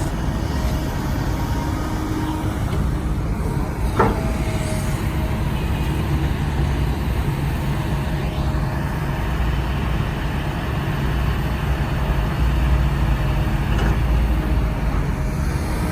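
Diesel engine of heavy earthmoving machinery running steadily under work, with a single sharp clank about four seconds in.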